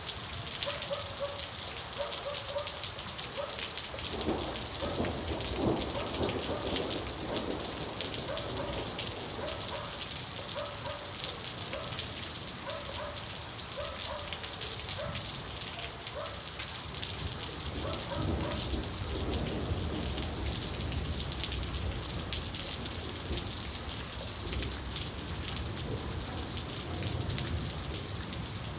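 Steady rain falling, with rolls of thunder rumbling; the deepest, longest roll comes about two-thirds of the way through.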